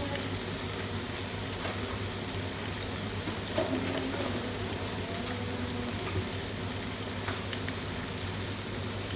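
Fajita filling frying in a pan, a steady sizzle as it browns, over a constant low hum. There is a light knock a little past the middle.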